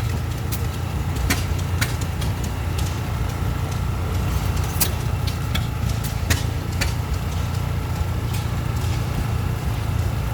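A vehicle's engine running steadily, with irregular sharp clicks and ticks over it.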